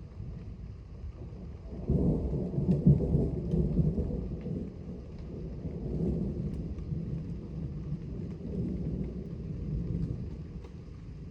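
Thunder rolling: a low rumble that breaks in suddenly about two seconds in, is loudest just after, then swells and fades in a few more rolls.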